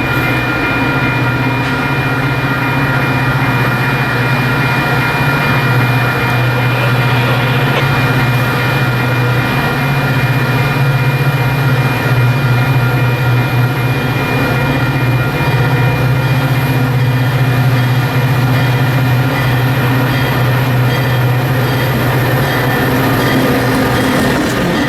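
Diesel locomotive of a Metra commuter train running steadily, a constant low engine drone with several steady whining tones over it.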